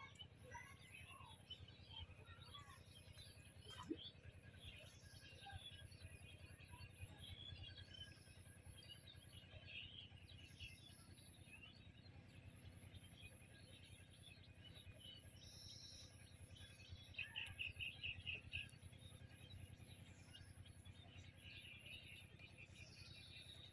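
Faint outdoor ambience of small birds chirping and calling on and off, with a quick run of repeated chirps past the middle, over a steady low rumble.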